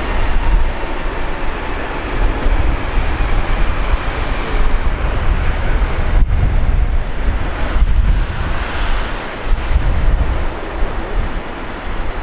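Strong wind buffeting the microphone in gusts, with a steady rushing roar underneath.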